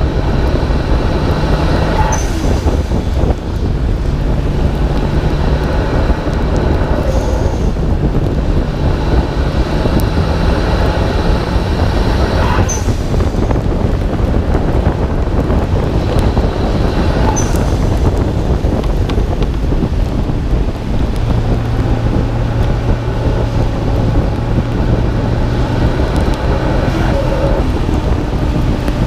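Nissan Skyline R32 GT-R's twin-turbo straight-six (RB26DETT) running under way on a wet road, heard from a hood-mounted camera, so wind and road rush are loud over the steady engine note. Four short, sharp bursts stand out every few seconds.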